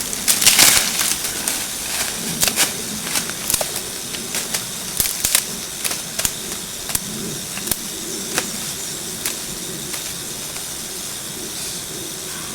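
Irregular snapping and crackling of twigs and dry leaves as a leafy branch is broken and handled, denser and louder in the first half, over a steady hiss.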